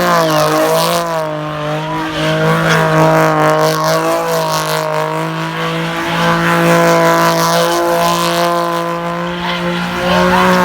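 A car's engine held at high revs while its tyres spin and screech in a burnout or donut; the engine note stays mostly steady, dipping briefly a couple of times.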